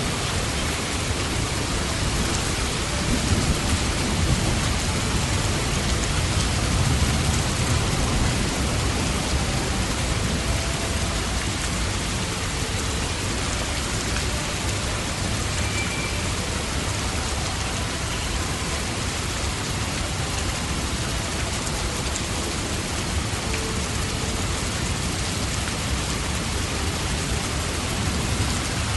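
Steady heavy rain falling, a dense even hiss of drops. A low rumble of distant thunder rolls under it during the first several seconds and then fades.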